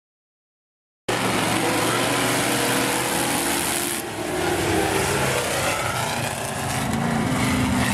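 Engines of several demo race cars running together on a speedway track, several engine pitches overlapping and shifting. The sound cuts in abruptly about a second in, after silence.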